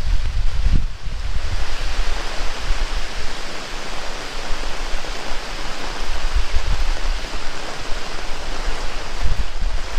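Heavy rain pouring steadily, with gusts of wind buffeting the microphone now and then, briefly near the start and again near the end.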